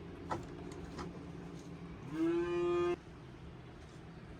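A cow moos once, a single steady call just under a second long about two seconds in, ending abruptly.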